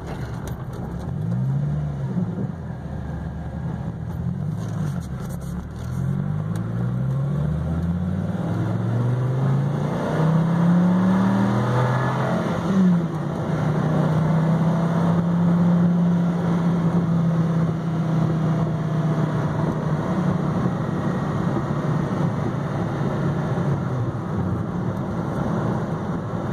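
Dodge Viper SRT10's V10 engine pulling hard through the gears, its pitch climbing and dropping back at each shift several times, then settling to a steady drone at cruise over road noise, heard from inside the car.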